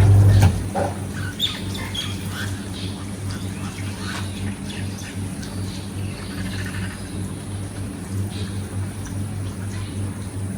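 Birds chirping and squawking in short calls over a steady low hum, after a loud low sound that cuts off about half a second in.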